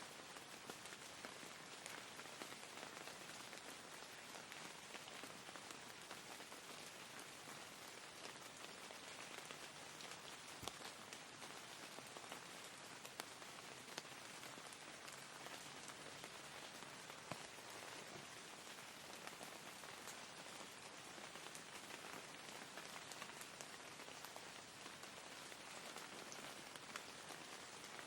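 Faint, steady rain falling: an even hiss with scattered sharper drops ticking through it.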